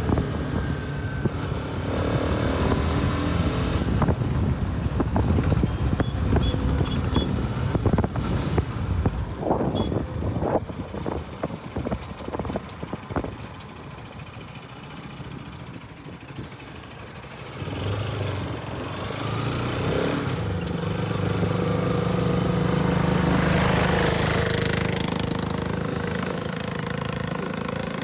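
Bajaj Pulsar RS200 motorcycle's single-cylinder engine running, with rough, crackly noise in the first half. The engine drops quieter near the middle, then a steady engine note comes in and grows louder.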